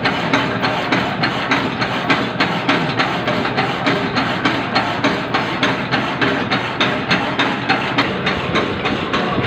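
Metal-cutting machine tool cutting a keyway in steel, a steady run of sharp cutting strokes repeating about three times a second over a continuous machine hum.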